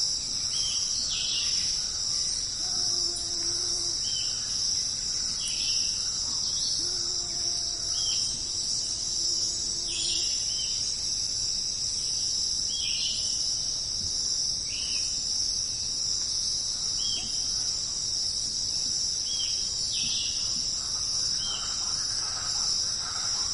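Jungle night ambience: a dense insect chorus, crickets and the like, keeps up a steady high-pitched buzz. Over it, short chirping calls repeat every second or two. A low hooting call sounds twice, briefly about three seconds in and then for about three seconds a little later.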